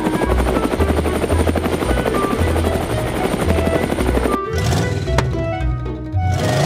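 Cartoon helicopter rotor sound effect, a fast steady chopping, over background music with a steady beat; the rotor sound cuts off suddenly after about four seconds, leaving the music.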